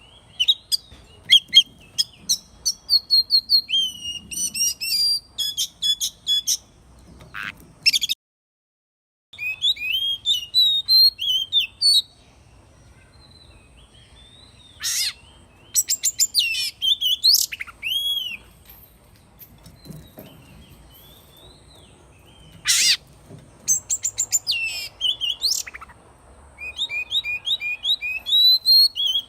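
Oriental magpie-robin singing: varied whistled phrases and rapid chirps in clusters, with pauses between them. The sound cuts out completely for about a second, around eight seconds in.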